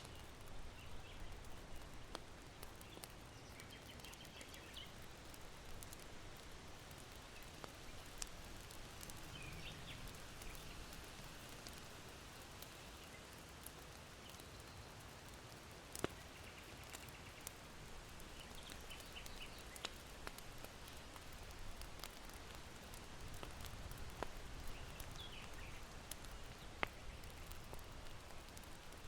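Charcoal embers in an irori hearth crackling with a few sharp pops, while small birds chirp faintly in short bursts over a soft, steady wind hush.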